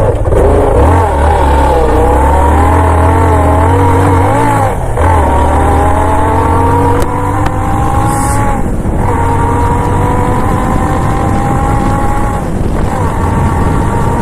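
Yamaha FZ25's single-cylinder engine through its stock exhaust, pulling away and accelerating through the gears. The pitch wavers at first, then climbs steadily with brief dips at gear changes about five, nine and twelve and a half seconds in.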